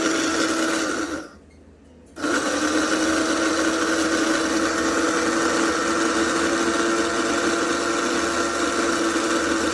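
LaHome electric stainless-steel coffee and spice grinder running with a steady high whir. It switches off about a second in and starts again a second later, as in pulsed grinding.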